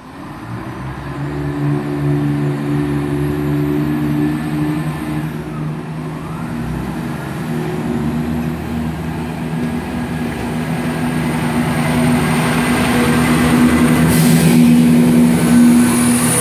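Class 170 Turbostar diesel multiple unit running slowly into the platform, its underfloor diesel engines humming steadily and growing louder as the carriages pass close by. A short hiss about fourteen seconds in and a thin high squeal near the end.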